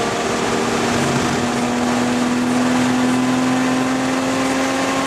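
Toyota Supra MKIV's 2JZ-GTE twin-turbo straight-six pulling hard down a straight, heard from inside the cabin, its pitch climbing slowly and steadily in one gear. Wind and tyre noise run underneath.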